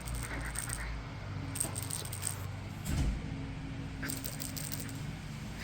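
Light metallic jingling and rattling in small irregular bursts, as kittens bat a jingly toy about.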